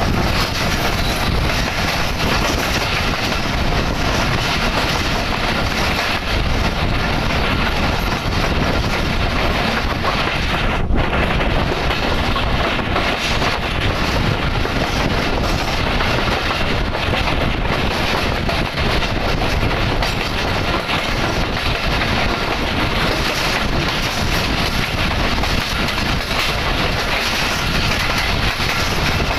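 Passenger train running at speed, heard from an open coach window: a steady, loud noise of the coaches' wheels on the rails.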